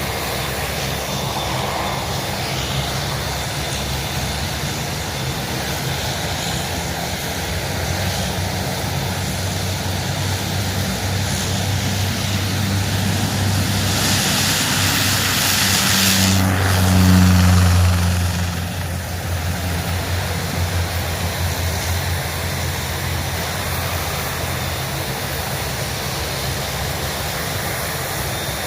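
Aircraft flying past, its engine rumble building to a peak a little past halfway and then fading.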